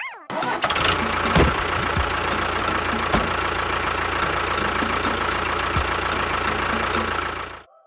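Steady engine running sound with scattered irregular knocks, starting just after the start and cutting off abruptly near the end.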